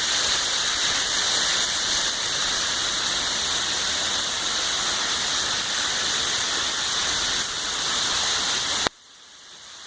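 Heavy rain, with rainwater rushing and splashing down a rain chain into a drain: a steady, loud rush of water. About nine seconds in it cuts off suddenly, then slowly swells back.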